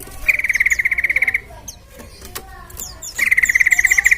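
Yellow-vented bulbul calling: two rapid, even rattling trills of about a second each, the second starting about three seconds in, with short high chirps between them.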